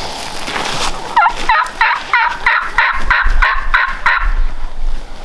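A Merriam's wild turkey tom gobbling: one loud gobble of about ten rapid rattling notes, starting about a second in and lasting about three seconds.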